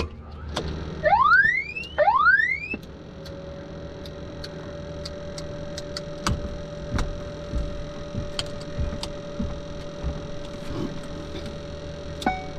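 Cockpit electronics of a Dassault Falcon 900 during pre-flight checks: two rising electronic tones about a second apart, then a steady tone, with scattered switch clicks throughout. Short beeps sound near the end.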